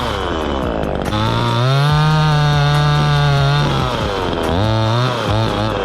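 Chainsaw engine revving: it falls back, climbs about a second in and holds at high speed for about two seconds, drops, then revs up and down again near the end.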